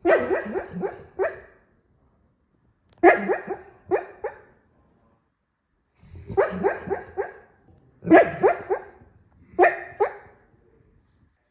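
Dog barking in five quick runs of three or four barks each, with pauses between the runs.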